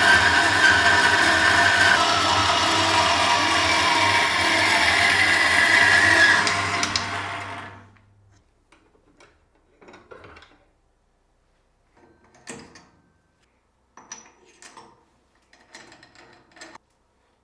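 An electric machine tool running steadily with a motor whine and hum. About six and a half seconds in it is switched off and runs down over a second or so. After that come a few light clicks and knocks of metal parts being handled.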